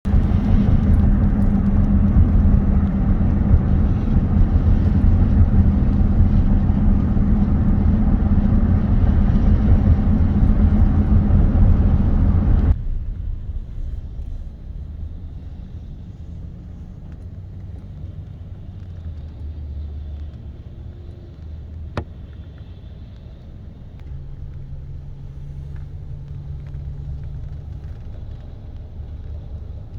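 A car driving, with a loud, steady low rumble of road and engine. About thirteen seconds in it drops suddenly to a much quieter low hum, and one sharp click comes about twenty-two seconds in.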